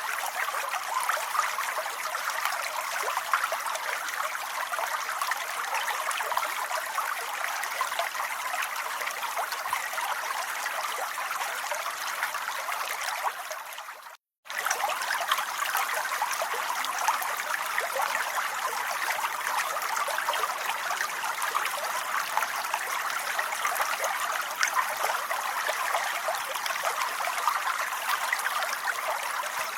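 Steady rain: an even hiss of many fine drops. About fourteen seconds in it fades, cuts to silence for a moment, then starts again abruptly, as at the seam of a looped recording.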